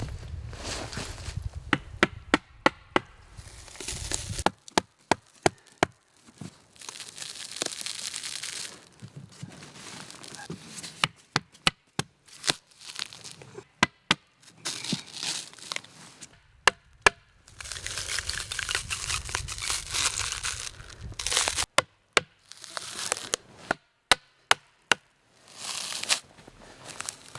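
Dry sticks and brush being broken and handled: sharp snaps and cracks, some in quick runs of several a second, between stretches of crackling, tearing rustle.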